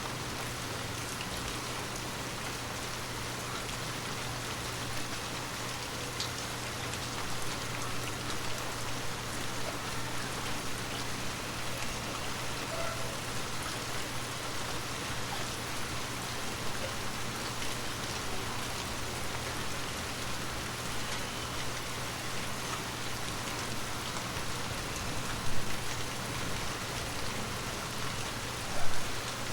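Heavy rain falling steadily, a dense even hiss of drops, with a low steady hum beneath it. Two brief louder bursts come near the end.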